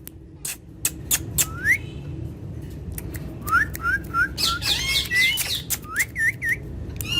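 Pet parrot chirping and whistling: a few sharp clicks at first, then a run of short rising chirps and quick looping whistles from about three and a half seconds in.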